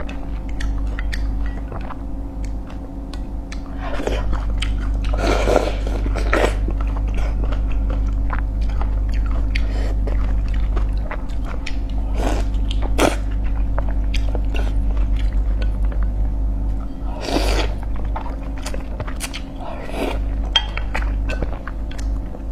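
A person chewing and biting food close to the microphone, with irregular crunches and wet mouth sounds, over a steady low hum.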